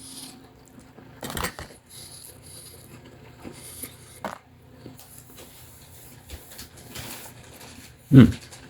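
A person chewing a mouthful of crispy breaded chicken drumstick, with scattered crunchy crackles and light clinks of utensils or a dish. A short, louder low sound comes near the end.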